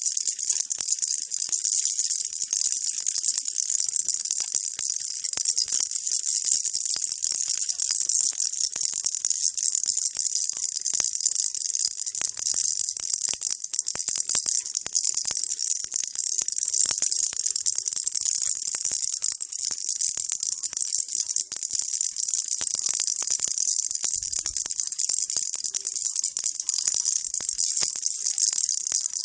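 Baby rattle shaken without pause, a dense, steady, high-pitched rattling of many small beads, used as white noise.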